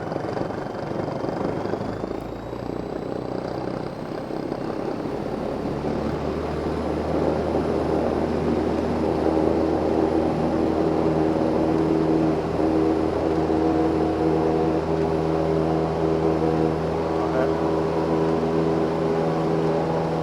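Cessna 172M's four-cylinder Lycoming engine and propeller heard from inside the cabin, rising in pitch and growing louder over the first several seconds as power comes up, then running steadily at high power.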